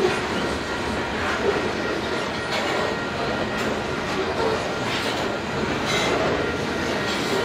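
Covered grain hopper cars of a long Canadian Pacific freight train rolling past close by: a steady rumble of steel wheels on rail, with irregular clicks as the wheels cross the rail joints and the grade crossing.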